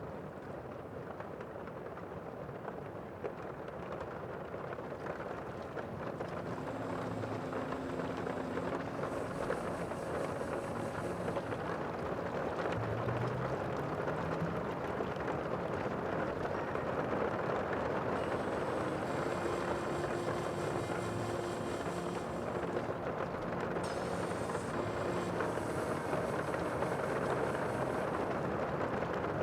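Steady wash of the sea, slowly growing louder, with a faint low engine-like hum and a brief rising tone about halfway through.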